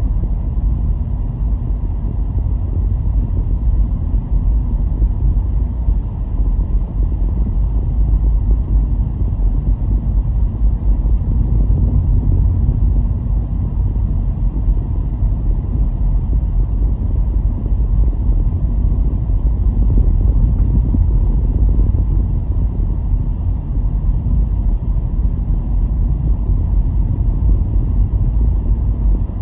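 Car driving at a steady pace: a constant low rumble of road, tyre and engine noise.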